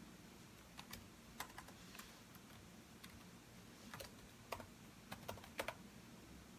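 Computer keyboard typed on in short, irregular bursts of a few keystrokes, with pauses between them.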